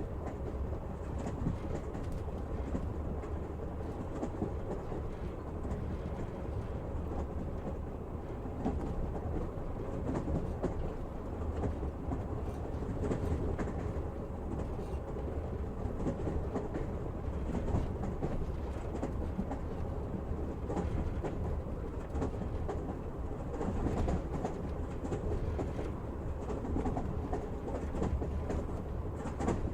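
Passenger train running steadily on the rails, heard from inside the carriage: a continuous low rumble with wheels clacking over the rail joints.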